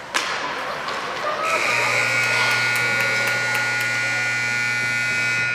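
A sharp crack just after the start, then a rink's electric buzzer sounds, a steady buzzing tone lasting about four seconds that cuts off.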